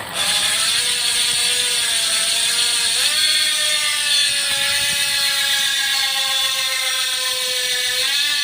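DT Swiss ARC 1400 rear wheel freewheeling: its ratchet freehub gives a loud, steady buzz. The pitch sags slowly, lifts about three seconds in as the wheel picks up speed, and dips again near the end.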